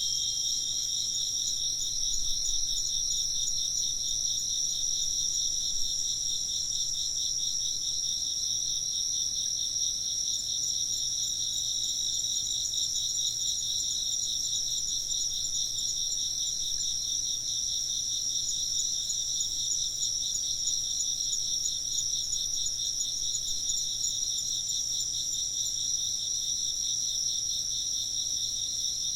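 A chorus of crickets chirping in a dense, steady, high-pitched trill that does not let up.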